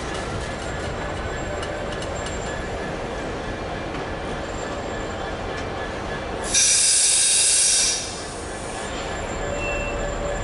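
A train passing with a steady rumble of wheels on rail. About six and a half seconds in, a loud high-pitched screech starts suddenly, lasts about a second and a half, and cuts off.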